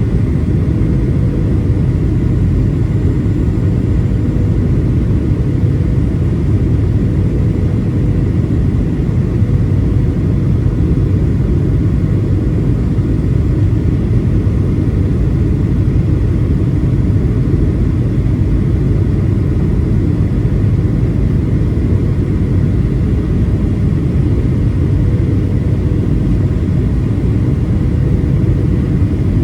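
Cabin noise of a Boeing 737-800 in flight: a steady, even rumble of its CFM56-7B engines and the airflow, with a faint steady hum.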